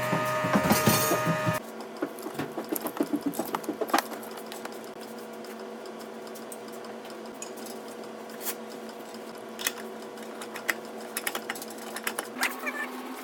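A steady mechanical hum with many irregular light clicks and ticks; the first second and a half is louder, with several steady tones.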